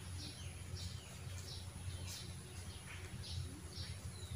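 Faint bird chirping: short, high chirps repeating about one or two times a second, over a low steady hum.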